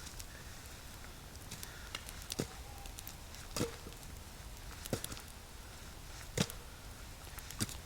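Wood being chopped: a series of sharp, single chopping strikes, about one every second and a quarter.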